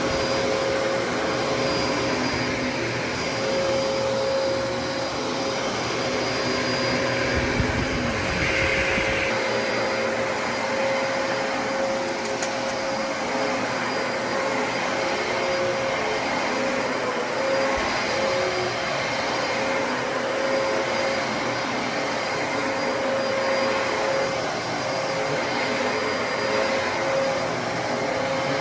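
Dyson DC33 upright vacuum cleaner running steadily with a constant motor whine. About eight seconds in, a low rumble and a rattling hiss come in for a couple of seconds, as debris is sucked up.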